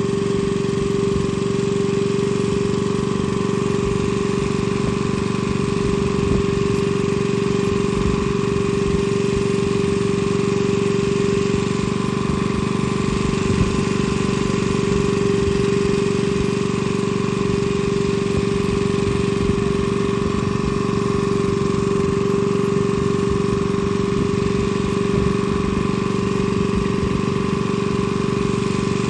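Engine running steadily at a constant speed, with an even hum and no change in pitch.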